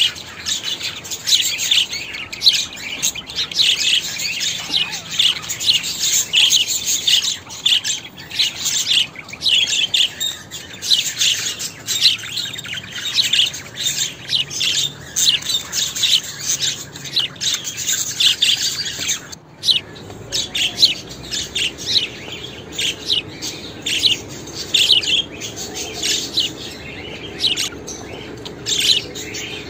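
Budgerigars chirping and chattering in a dense, rapid stream of short high calls, with a brief break about two-thirds of the way through.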